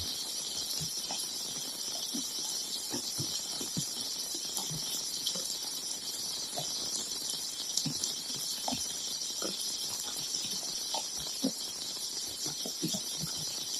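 Heavy rain falling: a steady hiss with scattered, irregular drops pattering and dripping onto hard surfaces.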